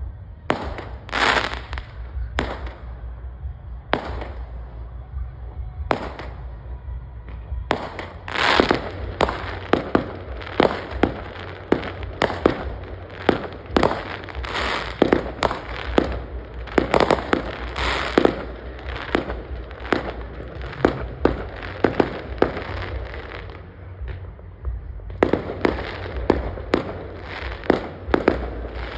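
Fireworks going off: a string of sharp bangs and pops at irregular intervals, sparse at first, then coming thick and fast from about eight seconds in. After a brief lull near the end they start up again.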